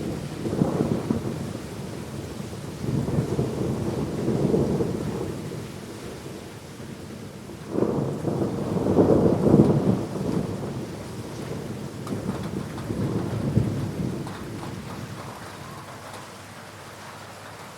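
Thunder rolling in several long low rumbles over steady heavy rain; the loudest roll breaks in sharply about eight seconds in, and the last one dies away, leaving only the rain near the end.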